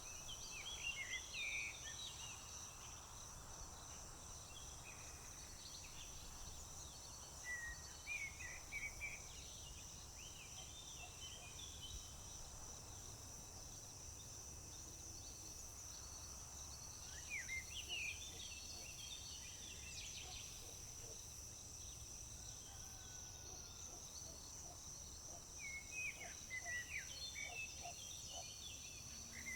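Steady high-pitched trilling of crickets, with songbirds singing short, quick phrases of chirps over it four times.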